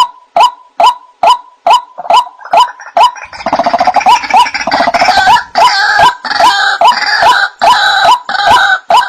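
White-breasted waterhen calling: a steady run of short 'kruak' notes about two a second, joined from about three seconds in by a louder, harsher jumble of overlapping calls.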